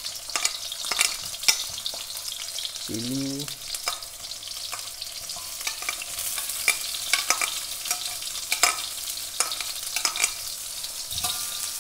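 Sliced shallots, garlic, ginger and bird's eye chillies sizzling in hot olive oil, a steady hiss with frequent sharp crackles and pops.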